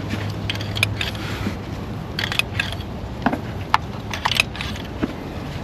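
Small metal parts and hand tools clinking and clicking in a series of short, irregular taps, as the old spark plugs are handled after removal, over a steady low hum.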